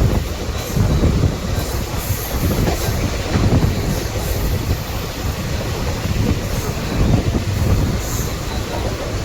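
Passenger train running along the track: a steady low rumble with the clickety-clack of wheels passing over rail joints.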